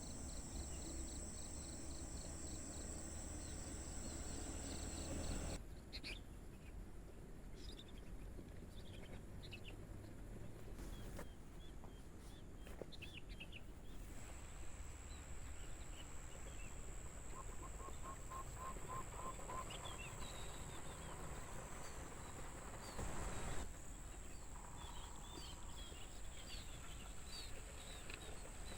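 Crickets shrilling steadily at a high pitch, with wild birds chirping and calling on and off. The shrill stops about five seconds in and returns around halfway, a short repeated trill comes near the middle, and a brief louder noise comes near the end.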